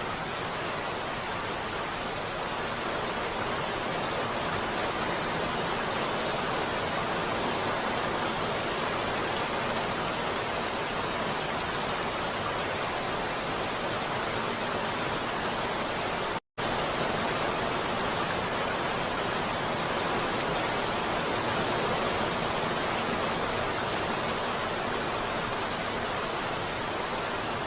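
Heavy rain falling steadily, an even hiss with no separate drops standing out. It cuts out to silence for an instant about sixteen and a half seconds in.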